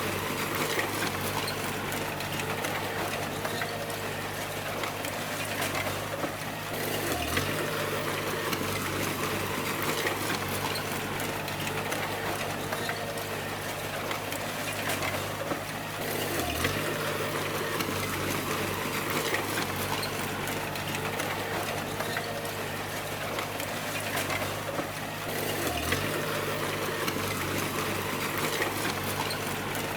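Bulldozer's diesel engine running steadily under work, its low note dipping briefly and recovering about every nine seconds.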